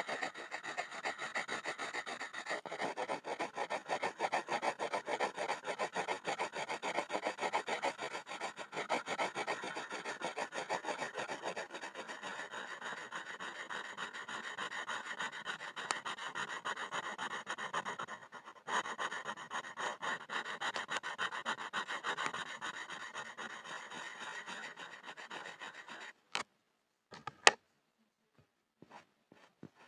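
Pencil scribbling on a board in fast back-and-forth scratching strokes, with a brief break about two-thirds of the way through. The scribbling stops near the end, followed by two short sharp taps.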